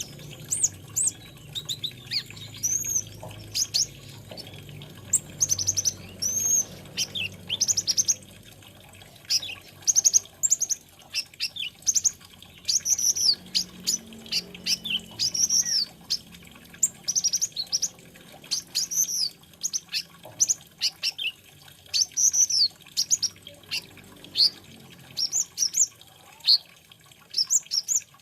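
Kolibri ninja (konin) sunbird singing: a fast, busy stream of thin, high chirps and quick up-and-down sliding notes that keeps going almost without a break, over a faint low hum.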